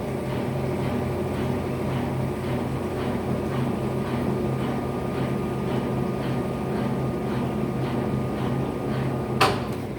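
Electrolux LF75 washing machine running quietly: a steady motor hum with faint regular ticking, and one sharp click near the end.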